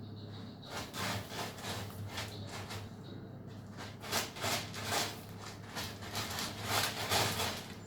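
A kitten's paws scratching and digging in cat litter: a run of short rasping strokes, louder and closer together in the second half.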